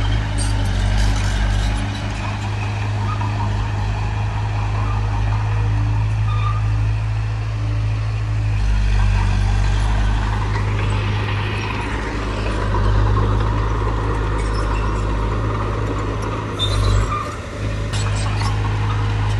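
Heavy diesel engine of a bulldozer running steadily at work, with a brief dip and a few sharp knocks near the end.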